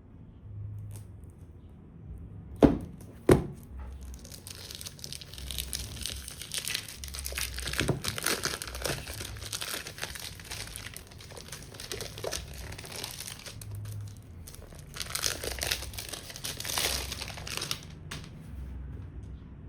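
Plastic shrink-wrap being torn and crinkled off a perfume box, after two sharp knocks of the box being handled.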